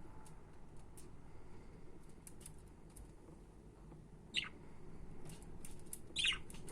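Budgerigars chirping: two short, louder chirps, one past the middle and one near the end, among faint scattered high clicks.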